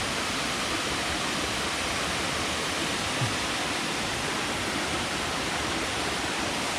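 Waterfall rushing: a steady, even noise of falling water that does not let up, with one brief low knock about three seconds in.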